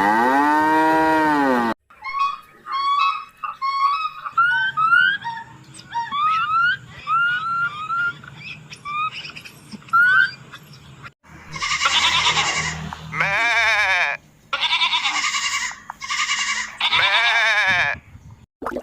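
A cow's moo ends about two seconds in. Then a bird gives a string of short rising chirps, and a goat bleats four times in loud, wavering calls.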